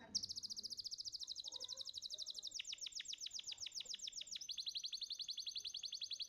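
A domestic canary sings a long, rapid trill of high repeated notes, about fifteen a second. The trill changes its note type twice, about two and a half seconds in and again about four and a half seconds in.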